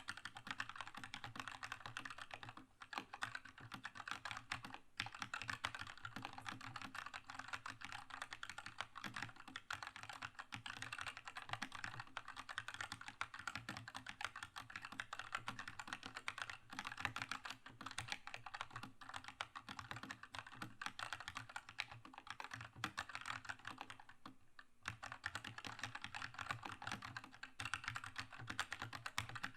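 Continuous fast typing on a Keychron K2 mechanical keyboard with red linear switches, a dense stream of key clacks with brief pauses about three seconds in, about five seconds in and near the end.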